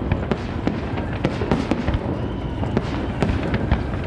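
Aerial fireworks display: a dense run of sharp bangs and crackles from bursting shells over a continuous low rumble.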